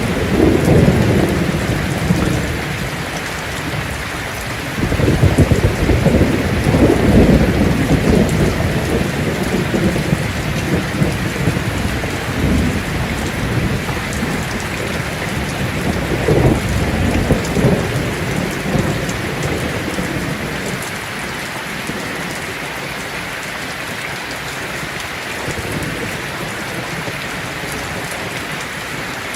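Heavy rain on a tin roof, a steady hiss, with rolls of thunder rumbling low. The thunder is strongest at the start and again a few seconds later, returns briefly past the middle, then fades, leaving only the rain for the last third.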